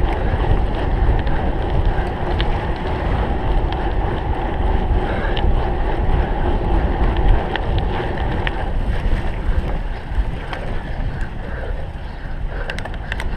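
Steady wind noise on the microphone of a cyclocross bike being raced, with a few short clicks and rattles near the end.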